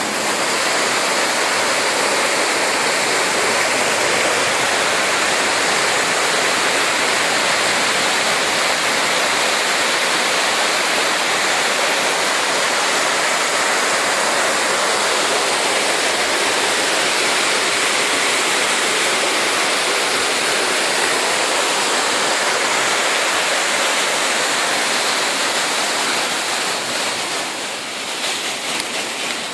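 Heavy rain pouring down, a loud steady hiss of water; near the end it eases a little and becomes more uneven.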